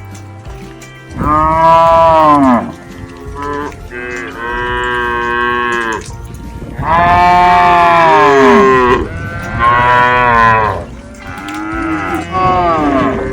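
Cattle mooing: about five long, loud moos in succession, each lasting a second or two and sagging in pitch toward its end.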